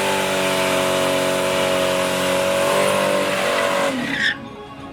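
Drag race car's engine held at high, steady revs, its pitch sagging slightly, then the sound drops away abruptly about four seconds in.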